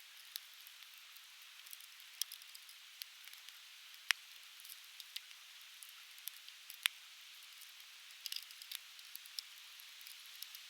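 Conifer-wood bonfire crackling, with sharp pops scattered irregularly through it; the two loudest come about four and seven seconds in. Underneath runs a steady hiss of a babbling river.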